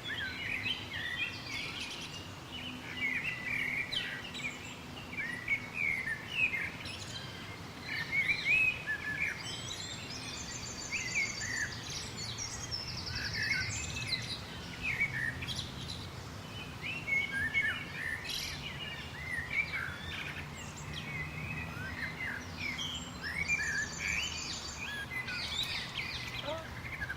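Several birds chirping and singing in overlapping short calls, with a rapid high trill twice, over a faint steady low hum.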